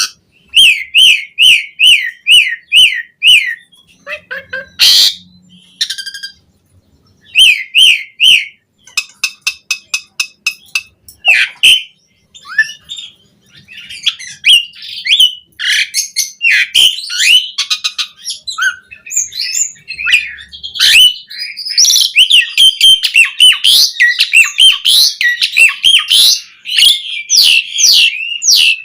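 Asian pied starling (jalak suren) singing a loud, varied song: runs of repeated down-slurred whistles, quick rattling clicks and chattering phrases. There is a short pause about twelve seconds in, and the song is densest near the end.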